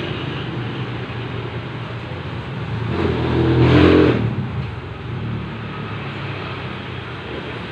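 Steady road traffic, with a motor vehicle passing close: its engine swells to a peak about three and a half seconds in and fades away within a second.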